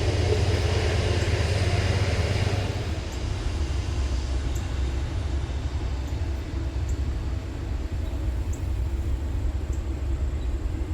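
Steady low rumble with a hiss over it, a little louder for the first two seconds or so.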